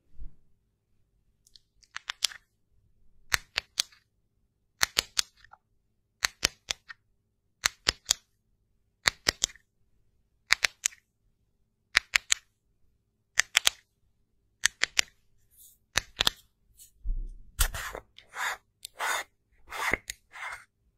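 Sharp clicks in clusters of two or three, about every second and a half, like small hard objects or a tool snapping shut. Near the end they give way to faster, longer scratchy strokes.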